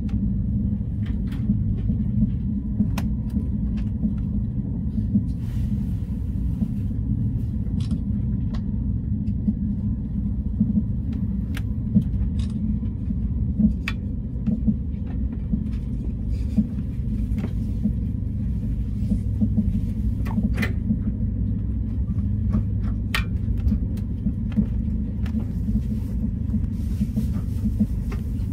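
A moving passenger train heard from inside the carriage: a steady low rumble of the train running on the rails, with scattered sharp clicks and rattles through it.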